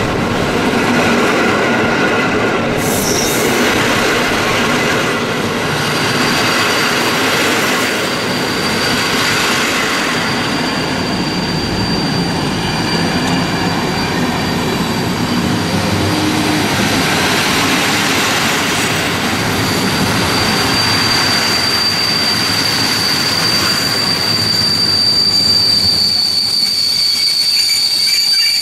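Train running past at close range, with a high steady wheel squeal that sets in about six seconds in and grows louder toward the end.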